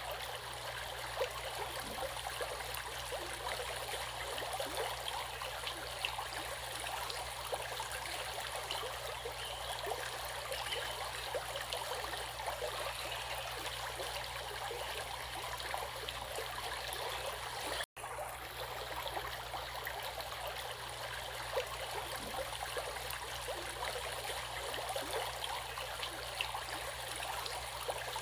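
Stream water running steadily, a continuous rush with fine splashing and trickling. The sound drops out for an instant about two-thirds of the way through.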